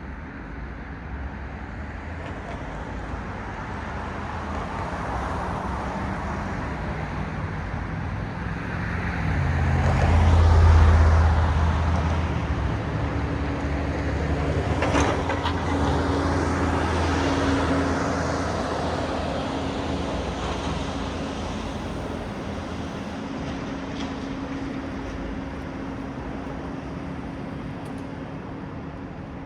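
Road traffic passing: the tyre and engine noise of vehicles swells as one passes close about ten seconds in with a deep rumble, then fades slowly under a steady low engine hum.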